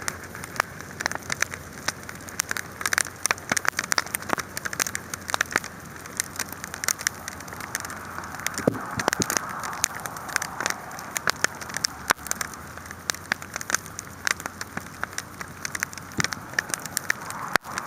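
Wood campfire burning: a steady hiss with dense crackling and sharp pops, several a second.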